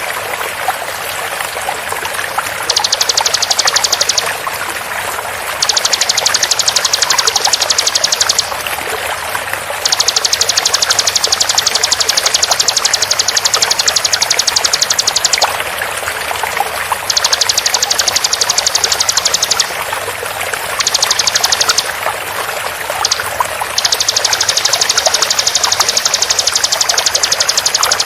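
Bar-winged prinia (ciblek) giving its rapid 'tembakan' trill: a very fast, high-pitched rattle in about seven bursts of one to five seconds each. It sounds over a steady background of flowing water.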